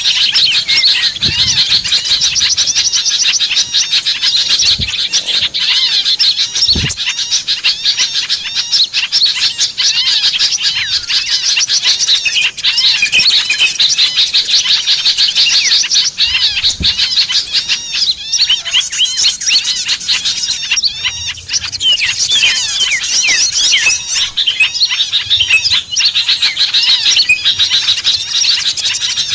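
A dense chorus of many small birds chirping and twittering without a break, quick overlapping chirps and short sweeps, played as a lure call to draw small birds in. A few soft low thumps sound under it.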